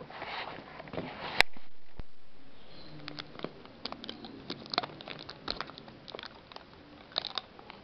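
Plastic packet of bird seed being handled: crinkling at first, a sharp click about a second and a half in, then many small irregular clicks and rustles.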